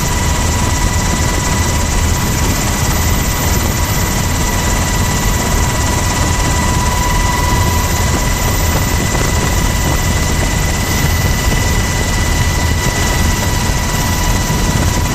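Helicopter in flight, heard from its open cabin door: loud, steady rotor and engine noise with a constant high-pitched whine.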